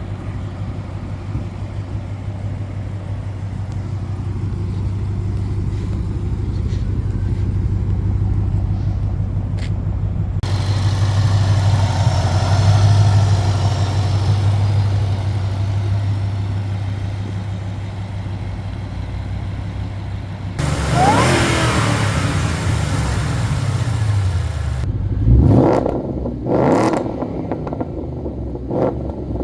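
Supercharged 5.0-litre V8 of a 2014 Ford Mustang GT running steadily, with a few quick revs near the end.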